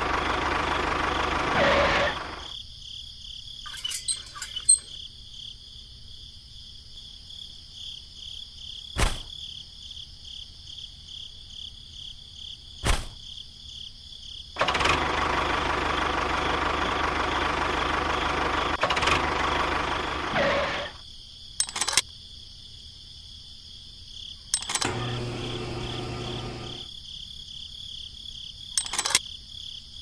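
Small electric motor and gearing of a miniature model tractor running in two loud spells, the first about two seconds long and the second about six seconds long starting midway. Sharp clicks and knocks fall in the quieter stretches between them, and near the end a short low hum comes in.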